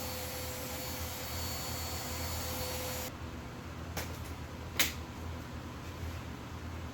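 Spray gun hissing steadily as it lays down a light coat, with a faint steady tone, cutting off sharply about three seconds in; two sharp clicks follow.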